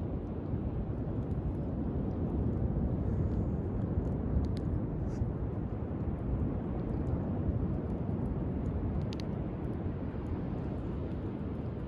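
Driftwood bonfire burning, with a few sharp crackles, over a steady low rumble of surf and wind.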